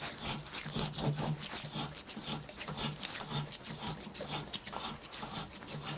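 Traction engine water gauge valve being turned back and forth by hand in its seat, lapping it in under its own weight: repeated gritty rubbing strokes, about two a second, with small clicks.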